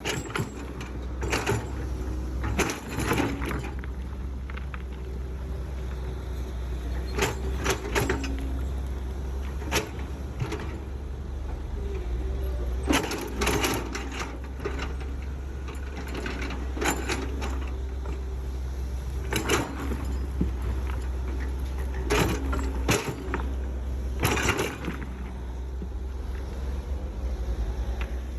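Excavator engine running with a steady low rumble, with sharp clanks of the bucket and arm at uneven intervals every few seconds as it digs.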